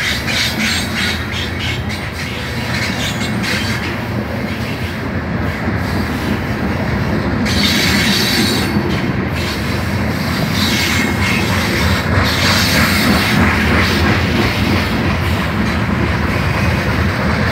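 Freight train's covered hopper cars rolling past close by: a steady rumble of steel wheels on the rails with clicking over the rail joints. A high wheel squeal joins in about seven or eight seconds in.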